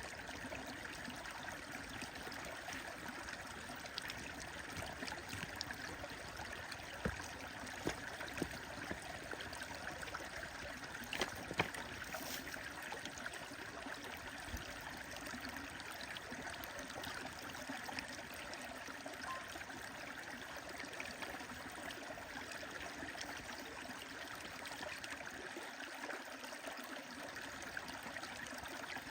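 Stream water running steadily, with a bonfire crackling: a few sharp pops stand out, the loudest around a third of the way in.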